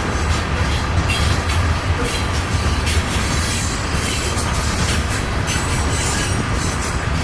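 Norfolk Southern freight train rolling past at speed: a steady, loud rumble and rattle of cars on the rails.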